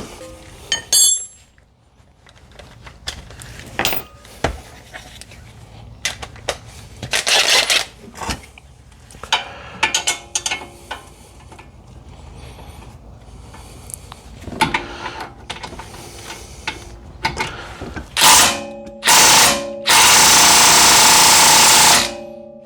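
Scattered clicks and clanks of hand tools being handled, then near the end two short bursts and a longer burst of about two seconds from a power wrench spinning fasteners.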